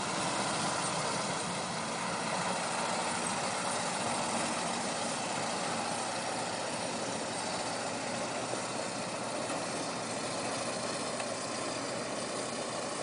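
A vehicle engine running steadily at idle, under a steady hiss.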